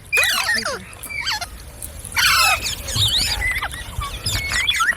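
Indian ringneck parrot calling: quick, squeaky gliding whistles and chatter, with a louder harsh squawk a little over two seconds in.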